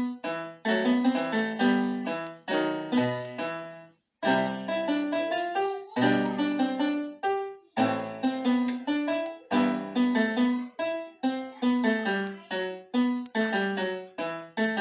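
Piano playing a light children's piece in quick, short, detached notes, with two brief pauses, about four and eight seconds in.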